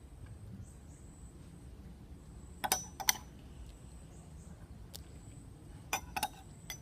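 A few short sharp clicks, a pair about three seconds in and three more close together near the end, over faint background hiss with a thin steady high whine.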